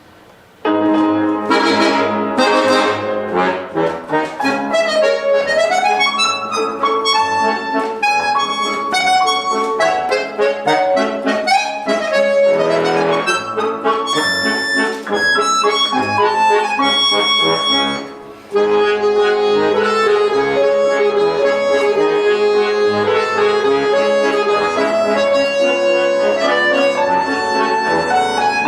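Accordion playing a waltz with piano accompaniment. It starts about half a second in, with a brief break about eighteen seconds in.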